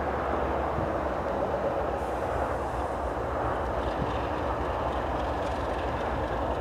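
Approaching diesel freight train, led by a Canadian Pacific GE ES44AC locomotive: a steady low engine drone over a continuous rumble.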